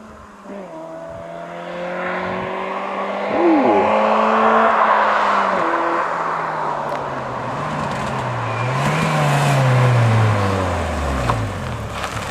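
Ford Fiesta 1.7 VCT four-cylinder engine and exhaust running on the move. The note holds steady with a loud rush peaking about four seconds in, then drops, rises briefly, and falls away near the end as the car eases off.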